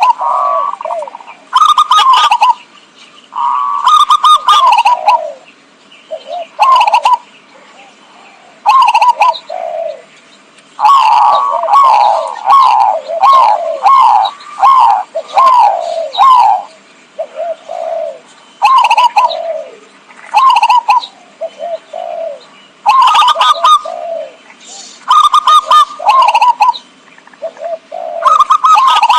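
Zebra dove (perkutut) cooing loudly in repeated phrases of quick, rolling coos, each phrase a second or two long with short pauses between, and a longer unbroken run of coos a little before the middle.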